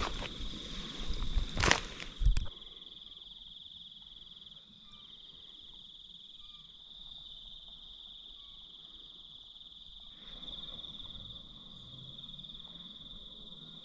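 Steady, high-pitched chorus of crickets in the bush. Over the first two seconds there is louder rustling with two sharp knocks, then only the insects go on.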